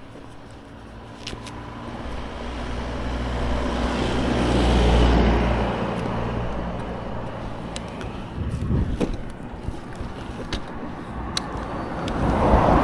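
Ducati Scrambler Sixty2 engine running, its sound swelling to a peak about five seconds in, easing off, then rising again near the end, with a few light clicks.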